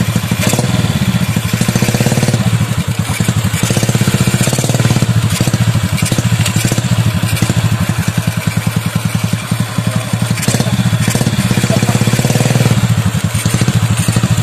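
Honda Revo Absolute's 110 cc single-cylinder four-stroke engine running steadily close up, with an even, fast firing beat. It is run to test the double clutch after a jammed ball in the clutch cage was straightened.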